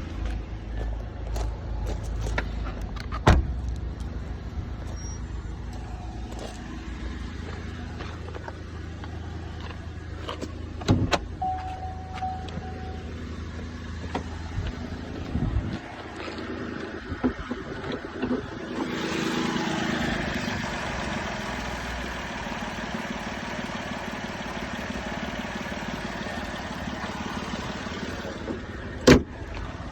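Saab 9-5 NG's engine running at a steady idle, with scattered clicks and knocks. Past the middle a broad rushing noise joins in and keeps going, and a single sharp knock comes near the end.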